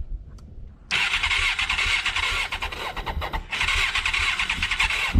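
An engine with parts still unplugged and not hooked up cranks and fires about a second in, then keeps running loudly, dipping briefly about halfway before picking up again. It is a first successful start.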